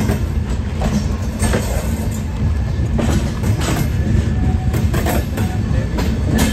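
Express passenger train rolling out of a station, heard from an open coach doorway: a loud, steady low rumble from the coach and wheels, with irregular clacks from the wheels on the track.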